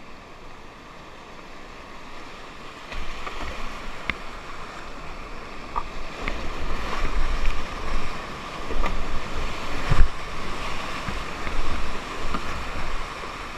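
Whitewater river rapids rushing, with low buffeting on the microphone that picks up about three seconds in. A few sharp knocks stand out, the loudest near the end.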